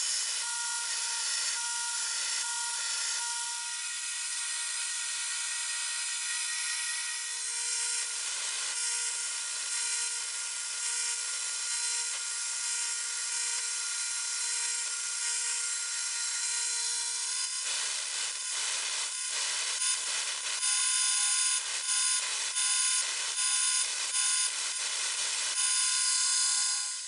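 A power tool running with a steady high whine while the blade of a sword being made is worked against it in repeated short grinding strokes, a quick run near the start and a louder series of about a dozen in the last third.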